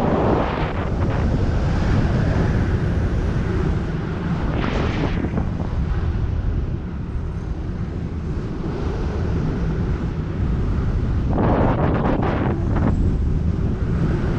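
Strong wind buffeting the microphone in flight under a speed-fly wing: a steady, heavy low rush. Briefly louder gusts come about five seconds in and again around twelve seconds.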